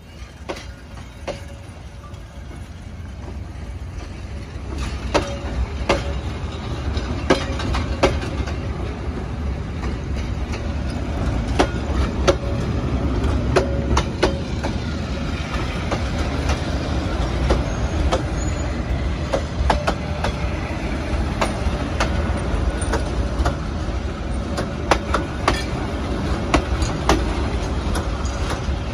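Passenger coaches rolling slowly past at close range as the train pulls out of the station: a low rumble of wheels on rail, with irregular sharp clicks as the wheels pass over the track. It grows louder over the first several seconds, then holds steady.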